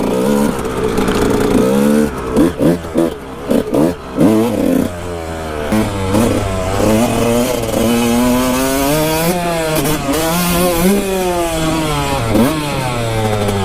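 Kawasaki KX 125 two-stroke dirt bike engine revving up and down as it is ridden, its pitch rising and falling over and over with the throttle and gear changes. For a few seconds early on the throttle is blipped on and off in short choppy bursts.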